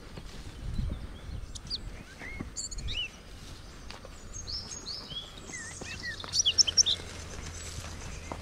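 Small wild birds chirping in a mountain forest: a scatter of short, high, sweeping call notes, coming thicker and loudest for a second or so near the end. A low wind rumble on the microphone underlies the first few seconds.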